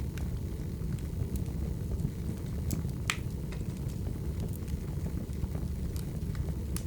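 Wood fire burning with a steady low rumble, and irregular sharp crackles and pops from the firewood, the loudest pop about three seconds in.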